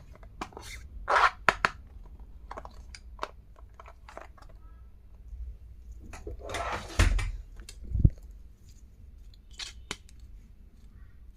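Stationery and its packaging being handled: scattered small clicks and taps, a crinkling rustle of packaging a little past halfway, and two low thumps of items being set down near the end.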